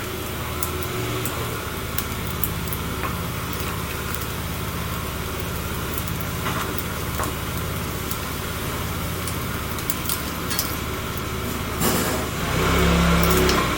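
Wood fire crackling with scattered sharp pops, over the steady hum of a vehicle engine running. The engine sound swells louder near the end.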